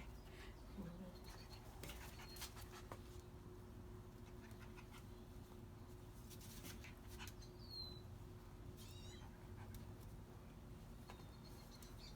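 Faint, occasional high squeaks and whimpers from Shiba–Eskimo mix puppies, one short falling squeak about eight seconds in, with a few small clicks and a steady low hum underneath.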